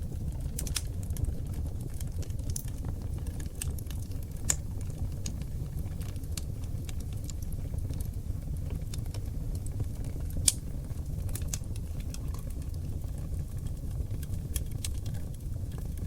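Wood fire of seasoned oak logs burning in a fireplace: a steady low rumble of flames with scattered sharp crackles and pops, the loudest pops about four seconds and about ten seconds in.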